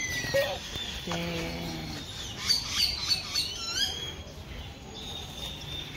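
Small birds chirping, with a quick run of high chirps in the middle. A brief low hum comes about a second in.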